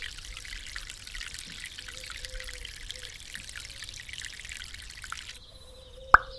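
Small stream of water pouring and trickling steadily, cutting off suddenly about five seconds in. A sharp plop comes just before the end.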